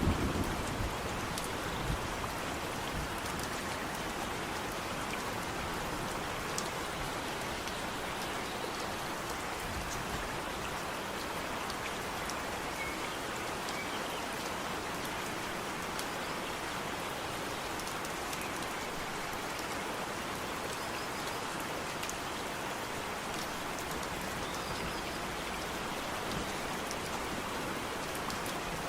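Steady rainfall, with a dense patter of drops landing on surfaces. A low rumble of thunder dies away in the first second.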